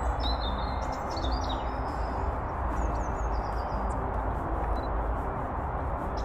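Small birds chirping and twittering over a steady rushing noise with a deep low rumble.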